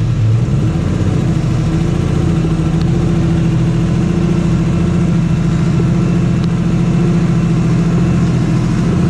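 A vehicle engine idling steadily, a low, even drone that holds its pitch throughout.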